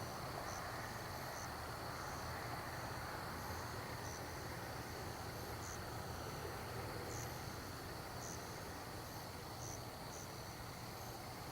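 Night insects, likely crickets, chirping: a steady high trill with short, higher chirps about once a second at uneven spacing, over a faint steady hiss.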